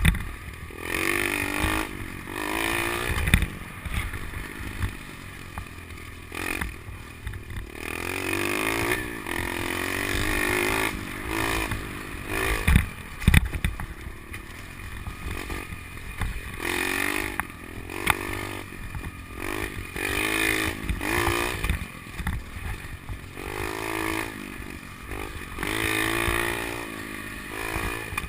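SSR 125 pit bike's single-cylinder four-stroke engine, fitted with an FMF Powercore 4 exhaust, revving up and backing off over and over while riding a dirt track. There are a few loud knocks from the bike over bumps. The choke is left on by mistake, so the engine is never held at full throttle.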